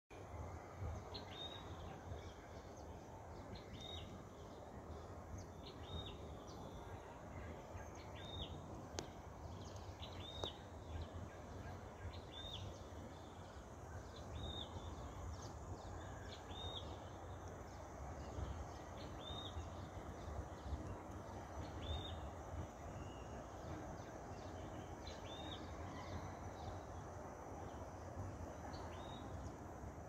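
A bird repeating a short high call about once every two seconds, over a steady low outdoor background rumble.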